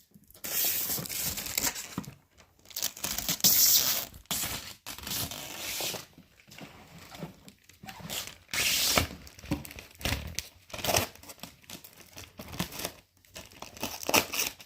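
Plastic protective film or wrapping being peeled off and crinkled in a run of irregular rustling pulls with short pauses between them.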